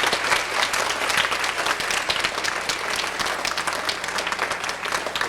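Audience applauding: a steady round of clapping from a large crowd, tapering off near the end.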